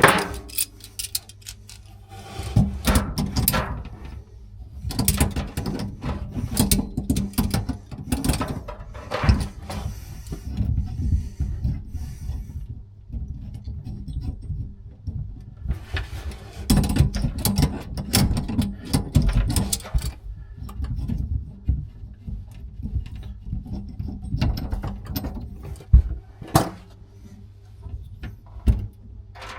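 Hand work with tools and plumbing parts: irregular knocks, clicks and rubbing, busiest in two stretches with quieter spells between.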